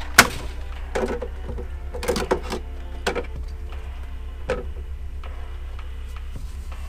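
Drumi foot-pedal washing machine spinning, its drum running with a steady low pulsing hum and several sharp knocks and rattles as it turns.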